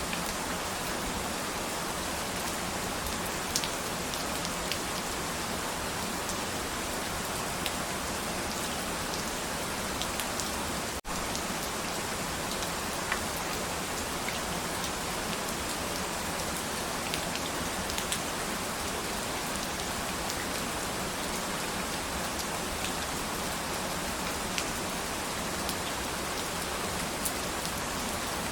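Steady rain falling, a constant hiss with scattered sharper drop ticks. The sound cuts out for an instant about eleven seconds in.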